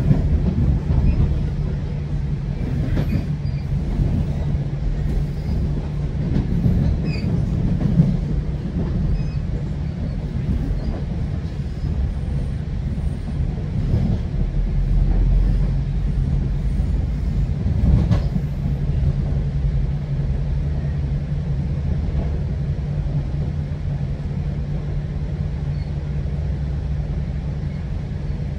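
GO Transit passenger train rolling along at speed, heard from on board: a steady rumble of wheels on rail under a low, even hum. A few sharp knocks break through, the loudest about 8 and 18 seconds in.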